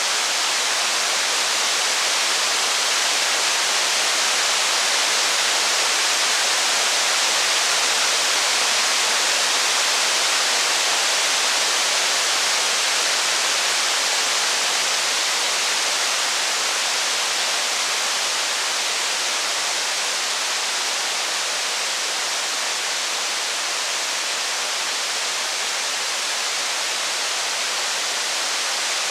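Steady rain, an even hiss throughout with no thunder or distinct crackles standing out.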